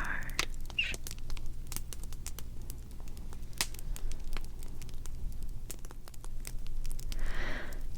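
Crackling fire: irregular sharp pops and snaps, scattered unevenly, over a steady low hum.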